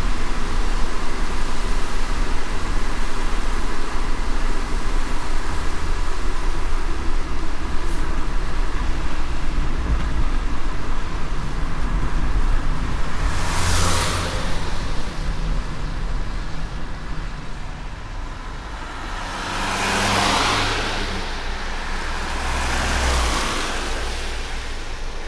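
Car driving on a wet road in light rain: steady tyre and road noise with a low rumble. Three brief whooshes swell and fade, one a little past halfway and two near the end.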